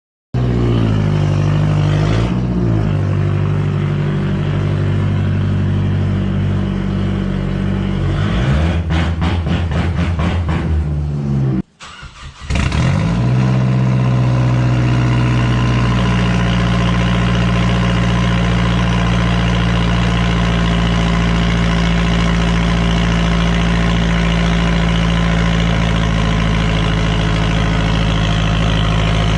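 Mazdaspeed3's turbocharged 2.3-litre four-cylinder engine running through a 3-inch straight-pipe exhaust, loud and raspy at idle. There is a brief rev about two seconds in and uneven pulsing in the middle. The sound cuts out for about a second and comes back, then holds a steady idle.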